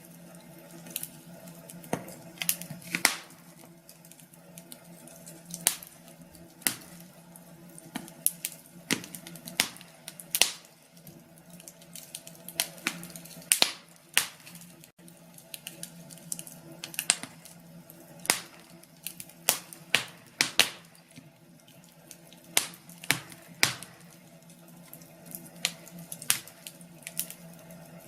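Wood fire in a fireplace crackling, with sharp pops coming at irregular intervals over a steady low background.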